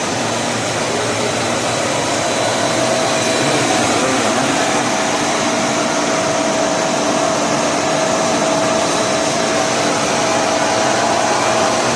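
Tornado incinerator running: a steady rushing noise of blown air and swirling combustion, with a faint steady hum through it.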